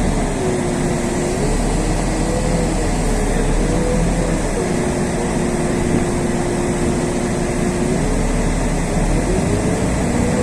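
LiAZ 6213.22 articulated diesel city bus driving, heard inside the cabin: a steady engine drone with a whine that rises and falls as the bus picks up speed and changes gear, holds steady for a few seconds in the middle, and climbs again near the end.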